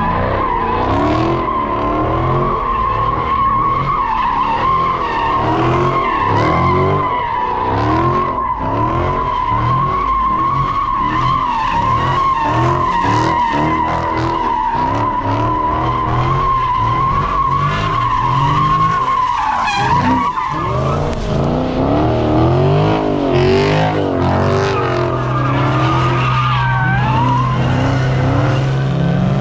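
Car doing a burnout: tyres squealing in a steady high screech while the engine revs up and down. The squeal dies away about two-thirds of the way through, and the engine keeps revving.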